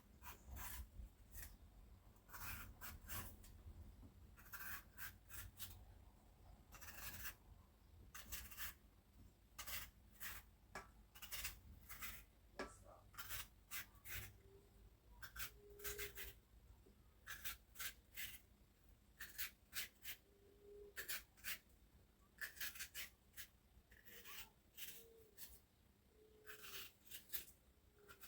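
Knife cutting sweet pepper on a cutting board: light, quick strokes in irregular clusters.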